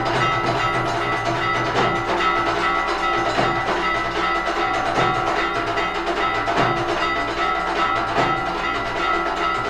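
Temple aarti music played live: many bells ring steadily together over continuous drumming.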